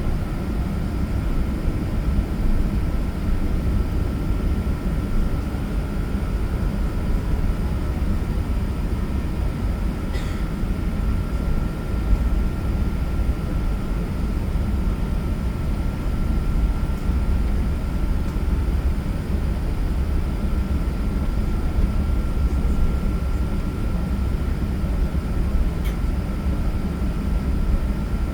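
Steady low rumble of an Airbus A380 airliner, with a faint steady whine above it and no change in level.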